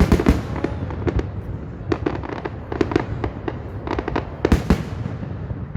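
Aerial fireworks going off in a rapid run of sharp bangs and crackles over a steady low rumble, with the loudest bursts right at the start and about four and a half seconds in.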